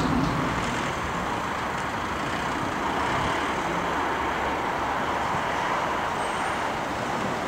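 Steady rushing noise of distant engines, holding even throughout.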